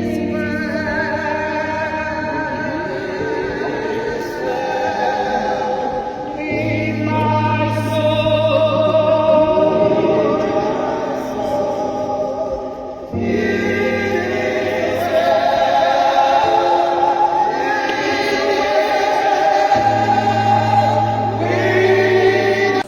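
Choir singing gospel music over a steady bass accompaniment, with the bass dropping in and out in blocks of a few seconds; the music cuts off suddenly at the end.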